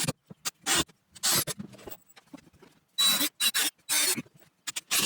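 A run of short scraping and squeaking noises from work on 2x2 wood framing, in separate strokes of a few tenths of a second each.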